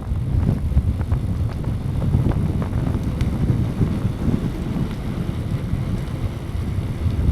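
Wind buffeting the microphone while riding a bicycle, a loud fluttering rumble mixed with road noise from the tyres, with a few faint light clicks.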